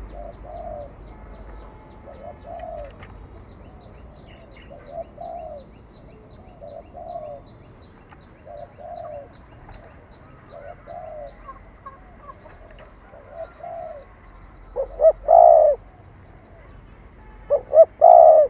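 Spotted dove cooing in the bowing 'gù' style. Short, soft coos come about every second and a half, then two much louder coo phrases of several notes each near the end.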